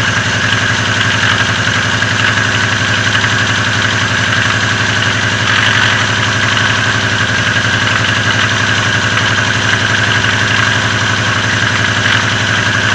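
VAZ Oka two-cylinder petrol engine idling steadily with a knock. The owner says the knock comes only at low revs, has grown louder over a long time and goes away when the revs rise; the valve clearances have been checked and are in spec, so the cause is unknown.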